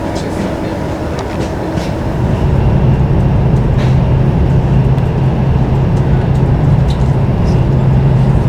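Passenger train running, heard from inside a carriage: a steady low rumble with scattered faint clicks, growing louder with a strong low hum about two seconds in.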